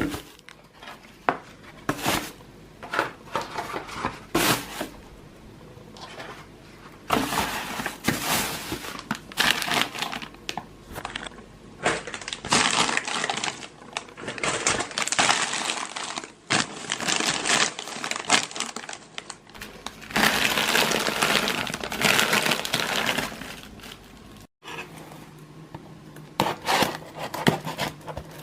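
Plastic packaging crinkling and rustling as groceries are unpacked, with short clicks and knocks of items and containers being handled and set down. The longest rustling runs come about seven, twelve and twenty seconds in.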